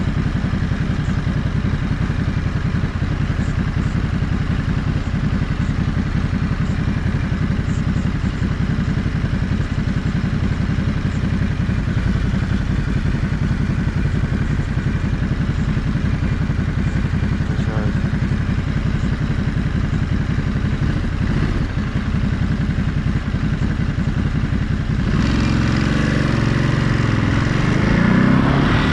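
Ducati Monster 937's 937 cc L-twin engine running steadily under way. It grows louder about three-quarters of the way through, and its pitch climbs near the end as it accelerates.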